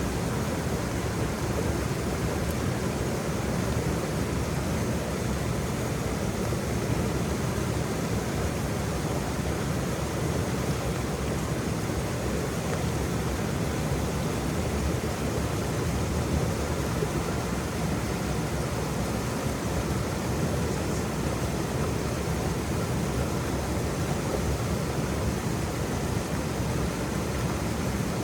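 Waterfall: a steady rush of falling water, strongest in the low end, with no breaks or changes.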